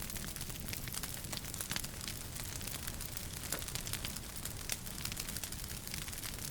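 Wood fire in a fireplace crackling: many small, sharp pops over a steady low rumble of the flames.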